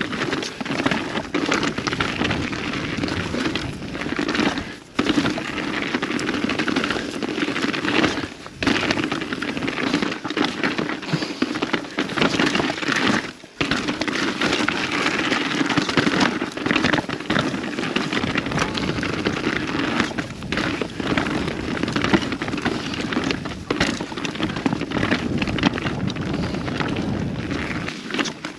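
Mountain bike descending a rough trail: a steady crackle and crunch of tyres on the trail surface, with the bike rattling over bumps. The noise drops out briefly about five, eight and thirteen seconds in.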